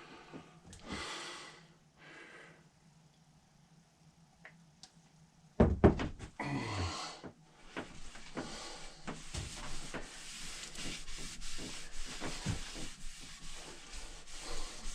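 Boiled linseed oil being rubbed into a wooden axe handle, a steady rubbing from about eight seconds in. Before that, a quiet stretch is broken by a sharp knock and a short scrape around six seconds in.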